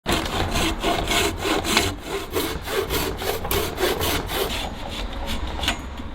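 Hand saw cutting through wood in quick back-and-forth strokes, about four a second, thinning out near the end.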